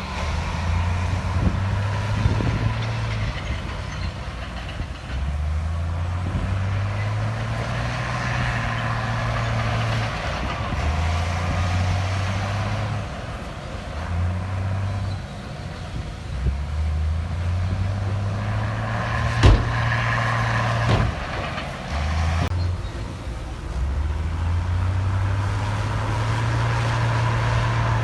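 Diesel engine of heavy earthmoving machinery working, its pitch and level stepping up and down every few seconds as the load changes. Two sharp knocks come about two-thirds of the way in.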